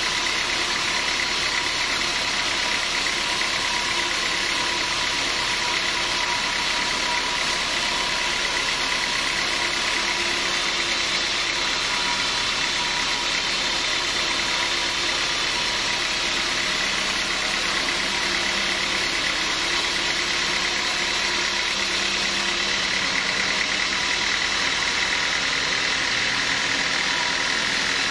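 Sawmill machinery running steadily: a continuous mechanical drone with a few steady tones, level and unchanging throughout.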